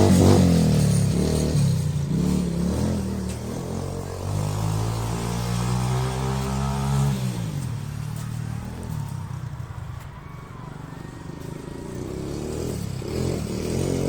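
Quad bike engine running and accelerating, its pitch climbing for a few seconds, then dropping off sharply about seven seconds in. It runs quieter for a while and picks up again near the end.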